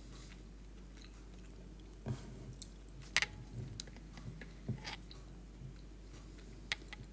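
Faint closed-mouth chewing of a mouthful of soft stuffed sweet potato, with a few small irregular mouth clicks, the sharpest about three seconds in.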